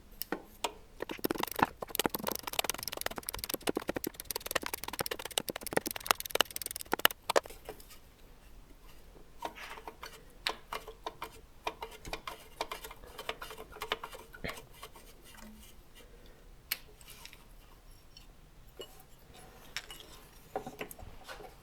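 Metal hand tools and sockets clicking and clinking, a dense run of clicks for the first seven seconds or so, then scattered clicks.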